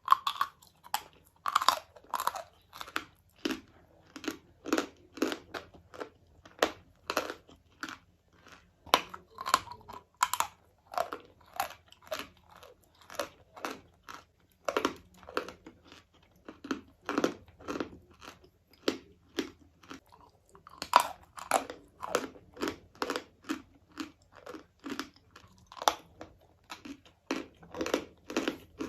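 Chalk being chewed close to the microphone: crisp, crunching bites about twice a second, on and on.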